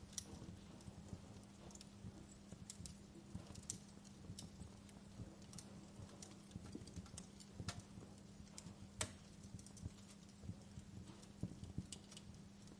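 Wood fire in a fireplace crackling: irregular small snaps and pops over a low, steady background, with a few sharper pops near the middle.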